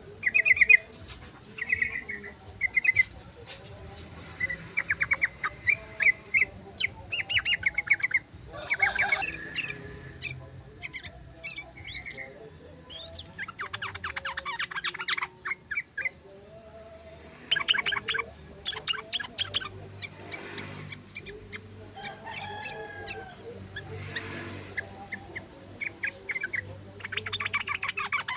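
Yellow-vented bulbul (trucukan) singing in a string of chattering phrases: bursts of rapid notes repeated every second or two, the longest runs about halfway through and near the end.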